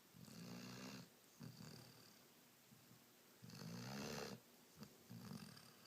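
Rhodesian Ridgeback puppy snoring in its sleep: a series of soft snores, each under a second long, the loudest about three and a half seconds in.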